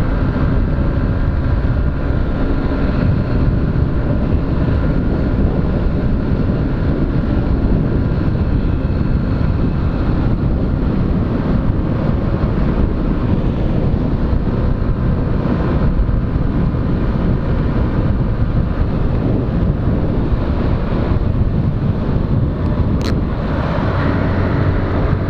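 Honda CG 125 Fan motorcycle's small single-cylinder engine running on the move, under a steady rush of wind over the camera microphone. Near the end the engine's low hum comes through more steadily.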